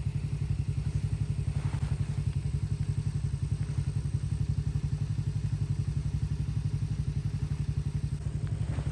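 An engine running steadily with a low, fast, even throb.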